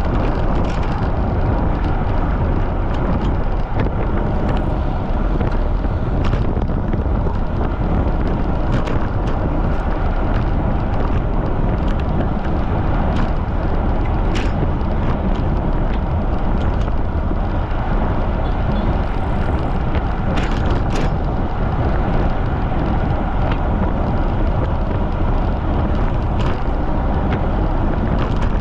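Strong wind buffeting the microphone during a fast bicycle ride, a steady loud rumble with scattered faint clicks.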